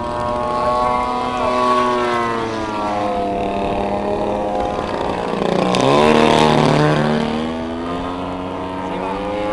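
Engines of giant-scale radio-controlled aerobatic model planes running in flight, their pitch rising and falling through the manoeuvres. About six seconds in, one makes a close, loud pass, its pitch dropping as it goes by.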